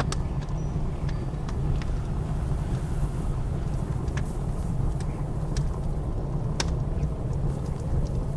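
Wood fire crackling in a fireplace, with irregular sharp pops, over a steady low roar of blizzard wind.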